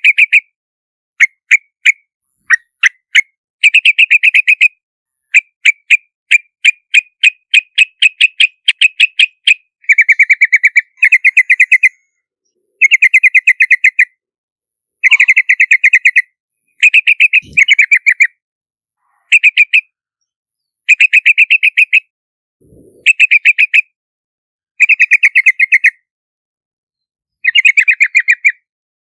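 Yellow-vented bulbul calling in repeated short bursts of rapid, bubbling chirps, each burst lasting under two seconds, with silent gaps between them. A few single sharp notes come about two seconds in.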